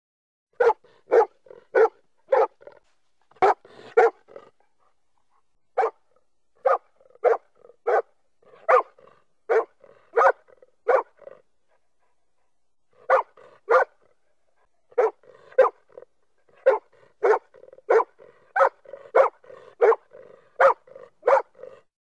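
Golden retriever barking over and over in single barks, about one to two a second, with short pauses around five and twelve seconds in.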